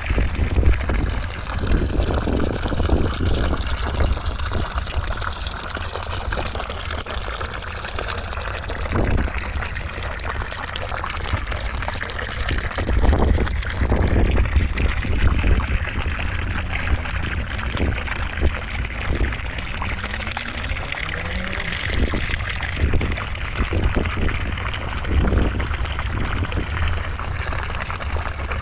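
Steady rushing noise of running water, continuous and even in level, used as white noise.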